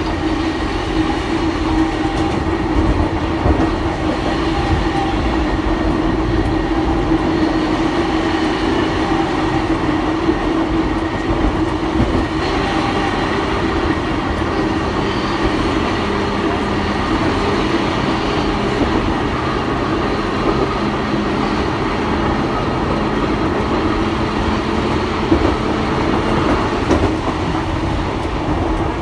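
Vintage Kotoden electric railcar No. 120 running along the line, heard from inside its passenger cabin: a steady running noise with a constant hum.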